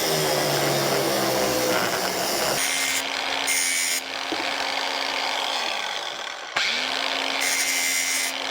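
Angle grinder grinding sheet steel on a car body panel, with harsh grinding noise at first and then a steady motor whine with hissy bursts as the disc bites. About three quarters of the way through, the grinder winds down and stops, then starts again and runs on.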